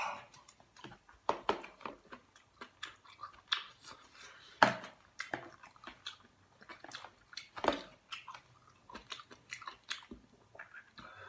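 A person chewing and biting through mouthfuls of kimchi stew close to the microphone. Irregular wet clicks and smacks come throughout, with two louder sharp sounds, one a little before halfway and one about two-thirds of the way through.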